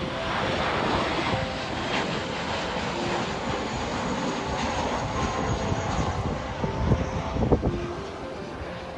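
Airplane flying over, its engine noise steady and then fading about eight seconds in, with a few low thumps around seven seconds.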